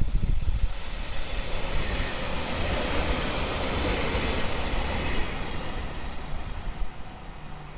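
Train passing close by: the rush of its wheels and body swells to a peak about halfway through, then fades away.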